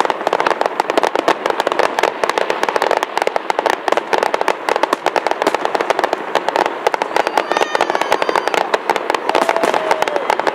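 Fireworks display: a dense, unbroken barrage of sharp cracks and crackling bursts, many a second.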